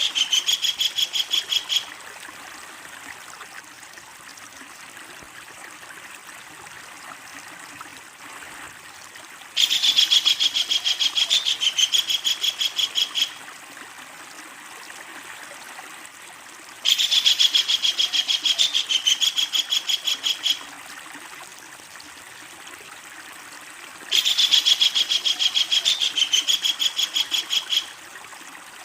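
Kingfisher giving its loud, rapid chattering call: a run of fast repeated high notes lasting about four seconds, sounding once at the start and then three more times at regular intervals, over a steady rushing background like a stream.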